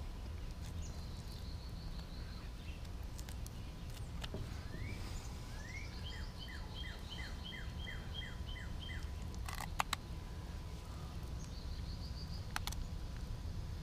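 Birds singing over a steady low background rumble: a short high trill, then a run of about ten quick repeated down-slurred notes, and another high trill near the end. Two sharp clicks come close together about ten seconds in.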